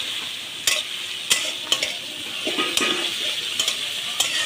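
Onion paste and chopped green chillies sizzling in hot oil in a wok as they fry, stirred with a metal spatula that scrapes and clicks against the pan about six times.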